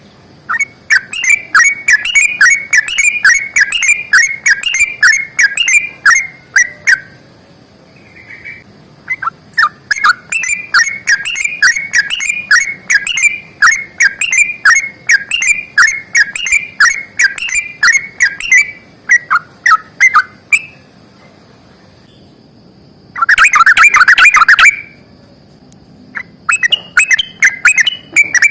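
Yellow-vented bulbul (trucukan) singing long rapid runs of bubbly repeated notes, about four a second, in stretches of several seconds with short pauses. About 23 seconds in there is a dense, loud burst of chattering lasting under two seconds.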